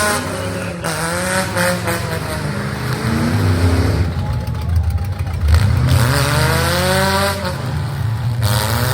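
Several demolition derby car engines running hard and revving, their pitch falling and rising again and again over a steady low rumble.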